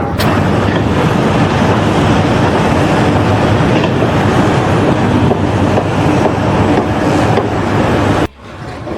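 Loud, steady mechanical rumble and rattle that cuts off abruptly about eight seconds in.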